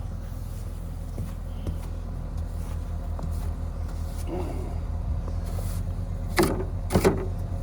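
Car engine idling with a steady low rumble while a broom brushes snow off the car, with two sharp brush strokes near the end.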